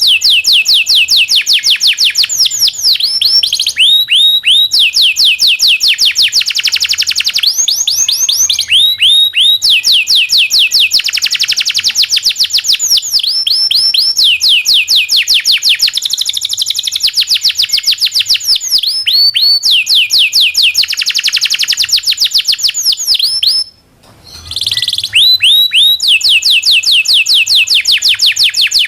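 Domestic canary singing a long, loud song of rolling trills: fast runs of rapidly repeated falling notes, one phrase straight after another, with a brief pause about three-quarters of the way through.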